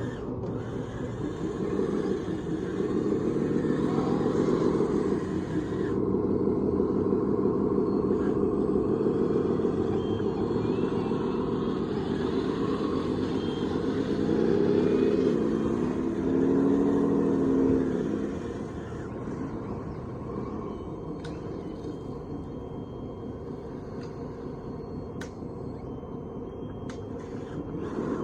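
Radio-controlled scale construction machine running with a steady engine-like drone. Its pitch rises and dips about halfway through, it gets quieter for the last ten seconds, and a few light clicks come near the end.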